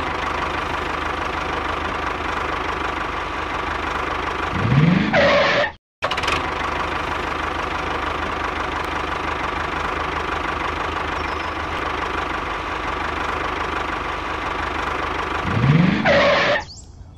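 Small motor of a DIY mini tractor running steadily with an engine-like drone. It is cut off sharply about six seconds in and then resumes, and near the end of each stretch it rises in pitch as if revving up.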